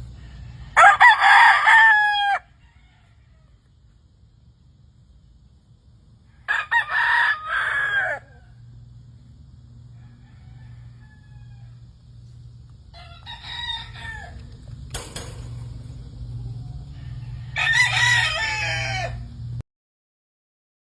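Gamefowl roosters crowing: four crows a few seconds apart, each about one and a half to two seconds long, the third fainter and more distant. A single sharp click comes between the third and fourth crows.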